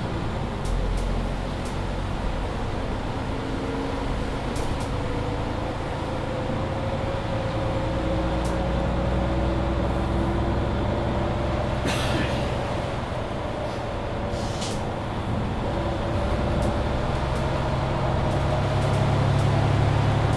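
Mercedes-Benz Citaro C2 hybrid city bus under way: steady engine and running noise with a thin whine that slowly rises in pitch. Two short hisses come a little past halfway.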